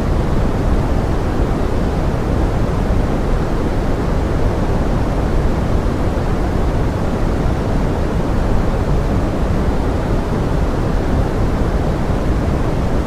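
Steady pink noise mixed with forest rain: an even, unbroken hiss, heavier in the low end.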